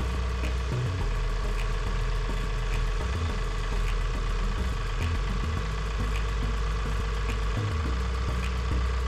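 Compact John Deere tractor's diesel engine running steadily at low revs while its front loader slowly raises a wooden post.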